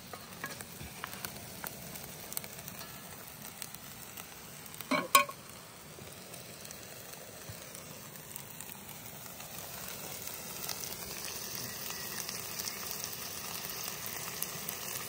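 Food sizzling as it fries in a pan: a steady crackling hiss that grows a little louder in the second half, with one brief, sharp louder noise about five seconds in.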